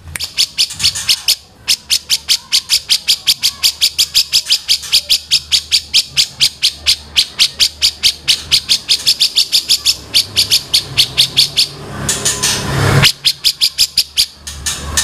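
A songbird repeating one sharp, high chip note about four to five times a second in a long steady series, with a short noisy stretch and a brief break near the end before the notes resume.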